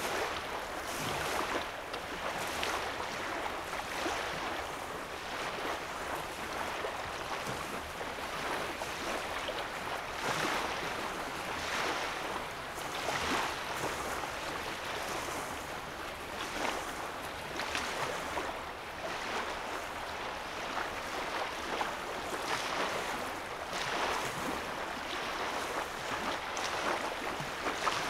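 Small lake waves lapping and splashing on a sandy shoreline, one small splash after another every second or so over a steady wash of water.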